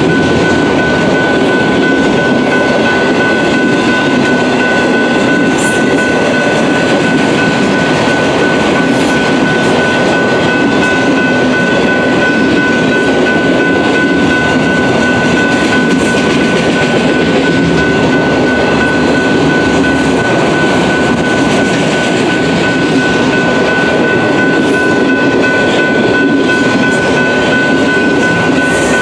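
Freight train of autorack cars passing at speed over a grade crossing, a loud, steady rolling noise of wheels on rail, with a constant high-pitched tone running over it.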